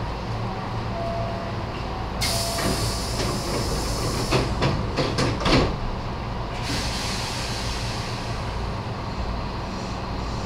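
Nose Electric Railway 7200 series electric train, heard from the cab: a steady low hum, then a sudden burst of air hiss about two seconds in that lasts some four seconds, with a quick run of clunks in its second half.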